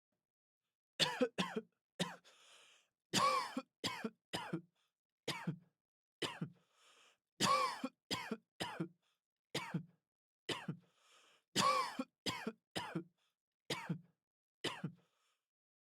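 A person coughing again and again in short fits, about twenty coughs in all, with faint breaths drawn in between.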